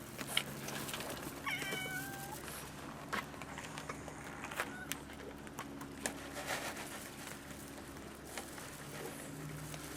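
A cat meowing once, a short call about a second and a half in, among scattered small clicks and taps from cats eating, over a faint steady low hum.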